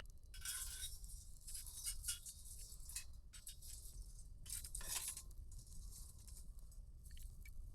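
Crinkling and rustling of material with scattered small clicks and taps, swelling twice, about half a second in and again about five seconds in.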